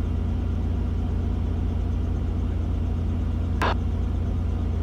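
Robinson R44 helicopter's engine and rotor running steadily, heard through the intercom as a low, even hum. A brief click sounds about three and a half seconds in.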